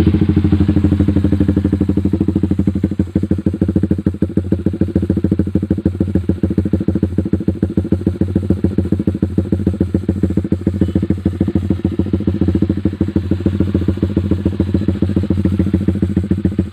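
Single-cylinder motorcycle with an aftermarket racing exhaust, just started and idling steadily with a rapid, even exhaust pulse.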